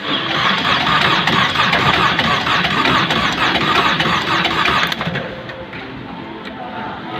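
Chevrolet Cruze 1.4 A14NET turbocharged four-cylinder petrol engine starting and running, loud for about five seconds and then settling to a quieter idle.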